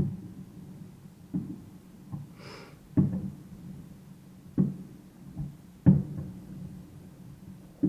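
Distant fireworks shells bursting: a string of dull booms, about six in eight seconds, the loudest about six seconds in, with a brief hiss about two and a half seconds in.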